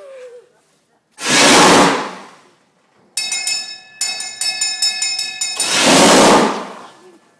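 A homemade miniature steam locomotive lets off two loud bursts of hiss, with its bell ringing in quick repeated strokes for about two and a half seconds between them.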